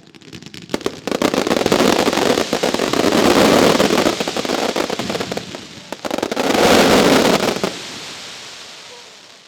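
Professional fireworks display: a dense barrage of rapid bangs and crackle in two waves, the second starting about six seconds in, then dying away near the end.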